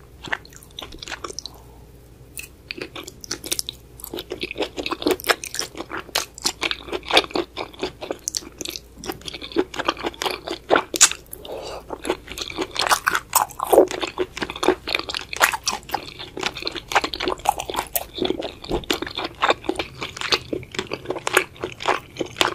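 Close-miked eating sounds of a person chewing spicy braised octopus: a dense string of short clicks and smacks from the mouth, with a quieter pause a second or two in.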